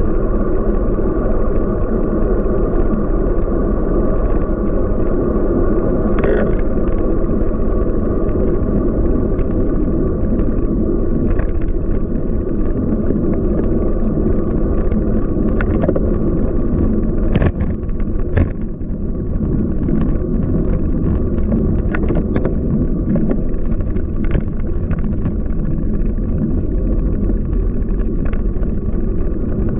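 Steady rolling and wind rush from riding a Scott Speedster CX bicycle, with a few sharp clicks or knocks, the strongest a pair about two thirds of the way in.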